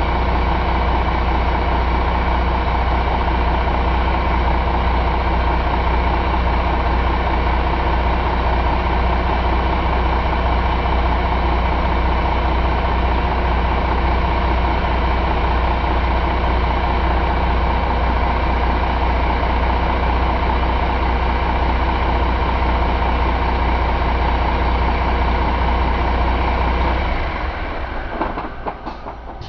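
2005 Cummins ISM inline-six diesel engine running steadily at idle, then stopping near the end, its sound dying away over a couple of seconds.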